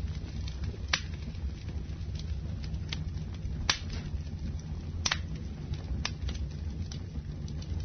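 Campfire burning: a steady low rumble of flames with irregular sharp crackles and pops of burning wood, roughly one a second.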